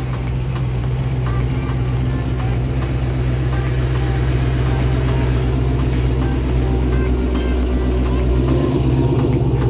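Dodge Challenger R/T's 5.7-litre HEMI V8 running at low speed as the car rolls slowly past, getting steadily louder, with a little rattle from a heat shield.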